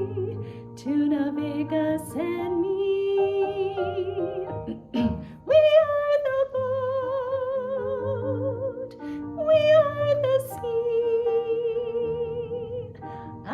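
Female voice singing a slow song in long held notes with wide vibrato.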